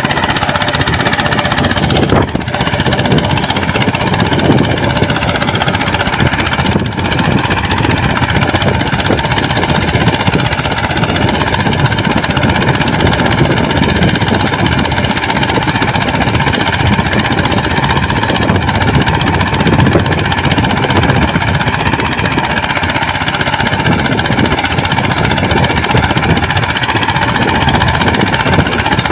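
Homemade agricultural mini tractor's small engine running steadily with a rapid knocking beat, with two brief dips about two and seven seconds in.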